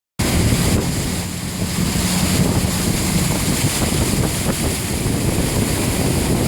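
A 4x4 driving through road floodwater a few inches deep: a steady rush of water churning around the tyres over the low hum of the engine. It starts suddenly just after the beginning.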